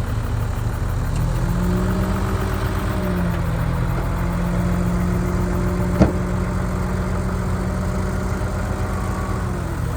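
Heavy diesel earthmoving machinery running with a steady low rumble. About a second in, a higher engine note comes in, rises a little, then holds until just before the end. A single sharp knock about six seconds in is the loudest moment.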